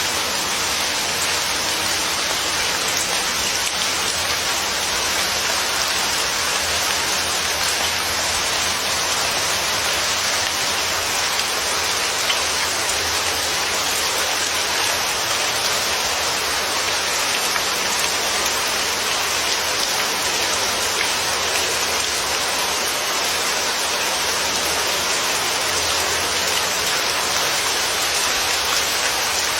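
Steady rain falling on a surface, an even hiss of drops that doesn't change.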